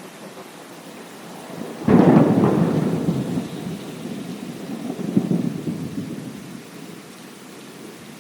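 A thunderclap over steady rain: a sudden crack about two seconds in, then rolling rumble that swells again a few seconds later and dies away, leaving the rain.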